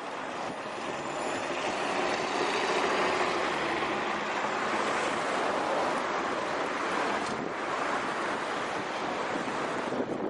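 Mercedes-Benz Atego truck driving past: a steady rush of engine and tyre noise that builds over the first few seconds and then holds, mixed with wind buffeting the microphone.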